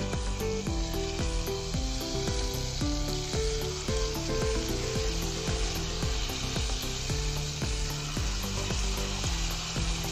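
Jalebi batter sizzling as it is piped into hot oil and fries, over background music with a steady beat.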